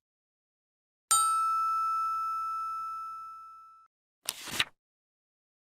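A single bell-like ding that rings out and fades away over about three seconds, followed near the end by a brief swish.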